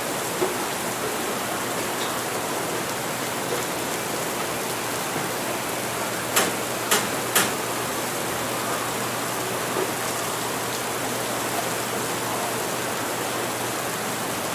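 Steady rain, with three sharp clicks about half a second apart near the middle.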